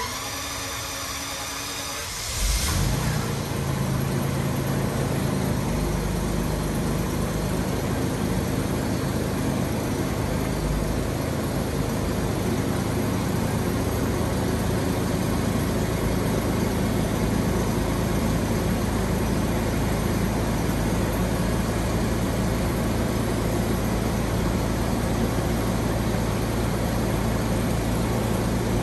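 Jaguar XJS engine cranked by its starter for about two seconds, then catching and running. It idles a little fast at first and settles to a steady idle about ten seconds in, heard from behind the car at the twin tailpipes.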